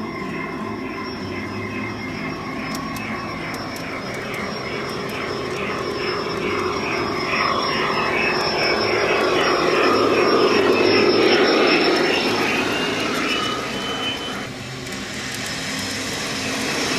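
O-scale model train running on garden-railroad track, its motor and wheels going steadily. It grows louder to a peak past the middle, dips briefly, then builds again as the train comes round.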